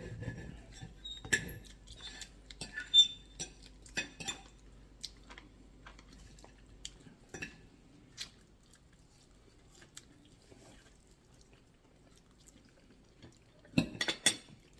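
Cutlery clinking against dinner plates in scattered short clicks, with a quick run of clinks near the end.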